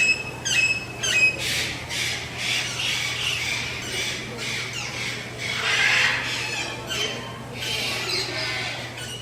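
Mixed aviary birds calling together: three sharp squawks in the first second or so, then a dense chatter of squawks and chirps from many birds at once, with a low steady hum underneath.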